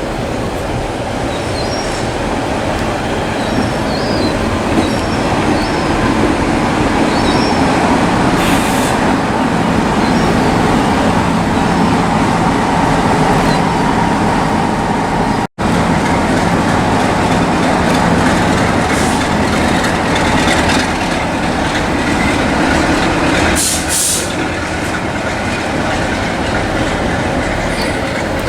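Railway train running, a loud steady drone with two brief hisses, one about eight seconds in and one near the end.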